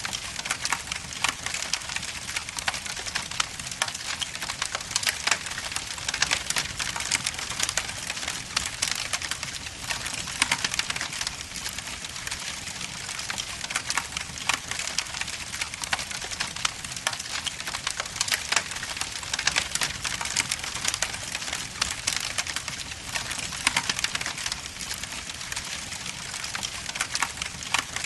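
Wood logs burning in an indoor fireplace: a constant crackle of many small irregular pops and snaps over a soft steady hiss.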